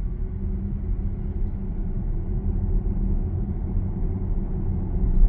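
Low, steady road and tyre rumble heard inside the cabin of a moving Zeekr 7X electric car, with no engine note.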